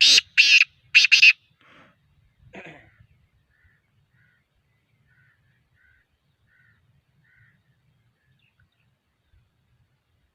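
Black francolin calling: three loud, harsh, rasping notes in quick succession at the start, then a couple of weaker notes. Faint short chirps follow about once a second.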